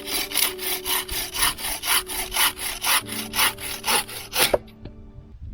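Hand saw cutting through wood in quick, even strokes, about four a second, stopping about four and a half seconds in.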